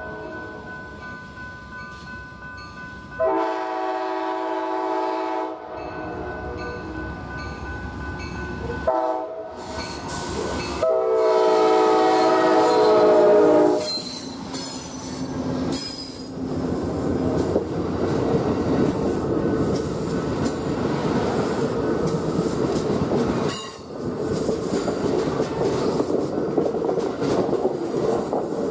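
Amtrak Southwest Chief's diesel locomotive sounds its multi-chime air horn in a long, long, short, long sequence, the standard grade-crossing signal. The train then passes close by with a steady rumble and clatter of wheels on the rails.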